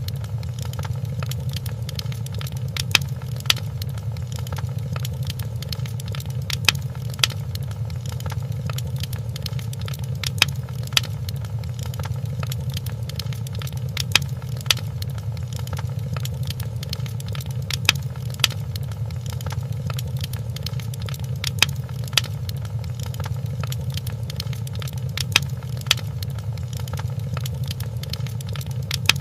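Wood fire burning in a fireplace: a steady low rumble of flames with constant light crackling and sharp louder pops, which come in pairs about every three to four seconds at an even pace.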